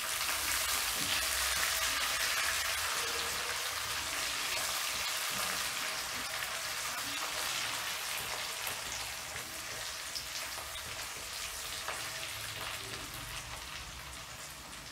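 Chopped green chillies sizzling in hot oil with onion, garlic and ginger in a metal kadhai as they are stirred. The sizzle is loudest in the first couple of seconds and slowly dies down.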